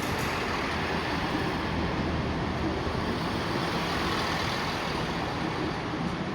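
Class 158 diesel multiple unit running through the station, a steady mix of diesel engine and wheels on the rails.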